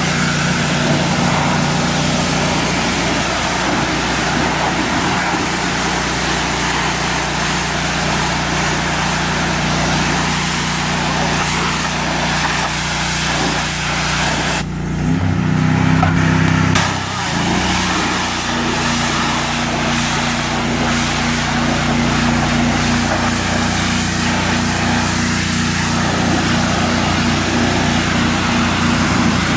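Gas-engine pressure washer running steadily under a hissing high-pressure water spray. About halfway, the spray stops for about two seconds and the engine note changes before the spray resumes.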